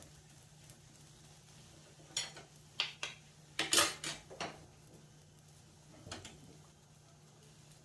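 Metal utensil clinking and scraping against a pan as fried onions and chillies are taken out: a handful of sharp knocks between about two and four and a half seconds in, the loudest near four seconds, and one more about six seconds in, over a faint steady hum.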